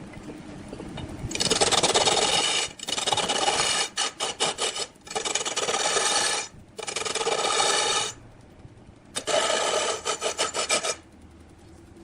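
A cutting tool rasping into wood spinning on a large wood lathe, in about five strokes of one to two seconds each. Some strokes break up into quick stuttering cuts. A low steady machine sound runs underneath between the strokes.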